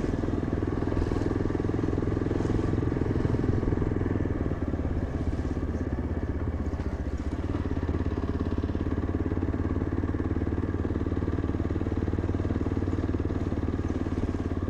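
Yezdi Adventure motorcycle's single-cylinder engine running steadily under way, heard from the rider's seat.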